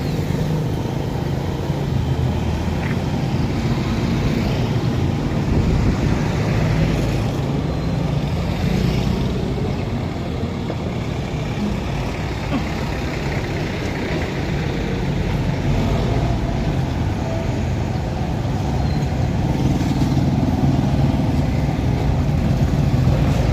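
A motor running steadily, a continuous low drone without breaks.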